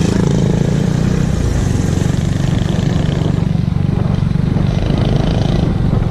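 Motorcycle engine running loudly at a steady speed, its exhaust giving a fast, even pulse.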